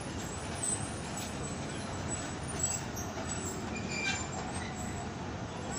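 Pakistan Railways passenger train rolling slowly through the station: a steady rumble with faint, scattered high squeaks and clinks from the wheels and coaches.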